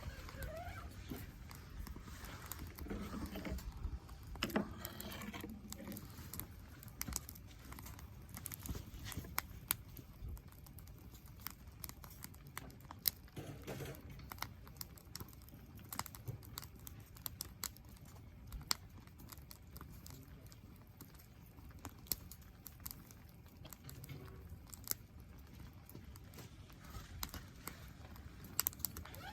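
Wood campfire crackling: irregular sharp pops and snaps over a faint low rumble.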